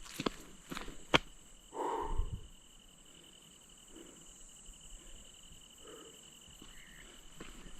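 Insects calling steadily in the background, a continuous high buzz. Near the start there are a few footstep-like clicks, including a sharp snap about a second in, then a short rustle around two seconds.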